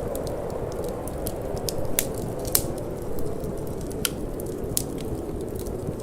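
Wood fire crackling in a fireplace: irregular sharp pops and snaps, the loudest about two and a half seconds in, over a steady low rush of burning and wind.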